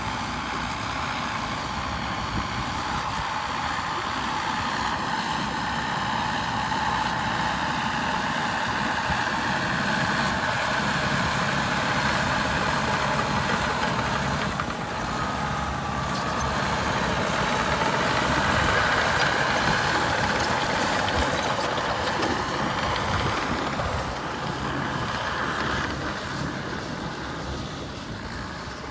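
Caterpillar D6R2 crawler bulldozer's diesel engine running under working load, its level swelling and easing a few times as the machine pushes.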